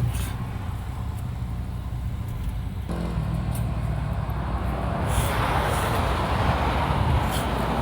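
Off-road vehicle driving on a dirt trail: a steady low engine and tyre rumble. A rougher, gravelly road noise builds from about five seconds in, with a few light knocks.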